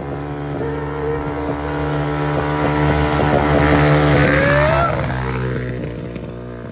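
Honda XR600R dirt bike's four-stroke single-cylinder engine riding by in second gear. It grows louder to a peak about four seconds in, revs up, then fades away as the bike moves off.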